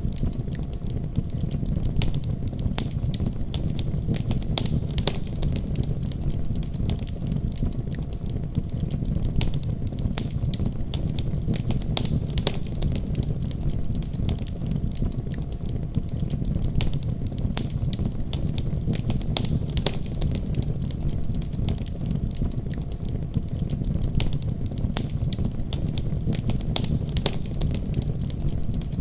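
Fire burning in a fireplace: a steady low rumble of flames with frequent sharp crackles and pops scattered irregularly.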